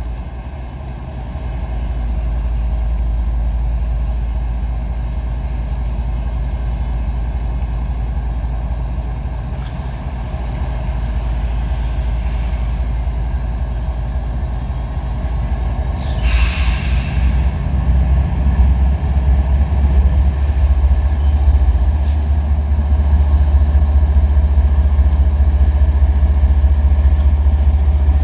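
Freight train's diesel locomotives rumbling as the train gets under way. About 16 seconds in a short hiss of air is heard, after which the low rumble grows louder and heavier.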